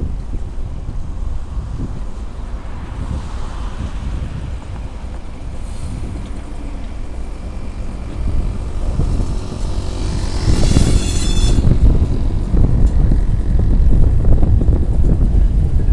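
Class 600 diesel shunting locomotive running with a low rumble, with wind on the microphone. It grows louder about ten seconds in, with a brief high-pitched squeal at the same time.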